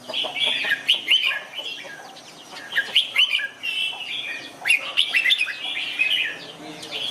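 Red-whiskered bulbul singing: several short phrases of quick, bubbly warbled notes.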